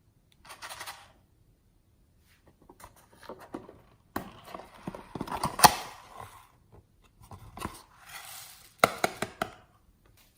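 Small hard objects and utensils handled: irregular clicks, taps and short scrapes. There is a sharp loud click a little past halfway, then a quick run of clicks near the end.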